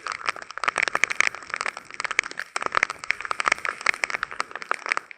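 Heavy rain shower, with a dense run of sharp, irregular ticks as drops strike a hard surface close by.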